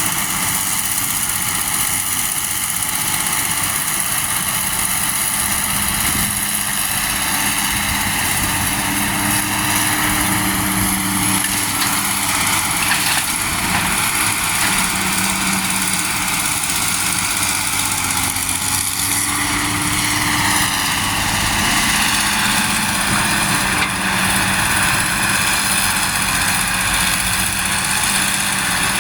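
Heavy trucks' diesel engines running steadily, with the engine pitch shifting slowly a few times around the middle.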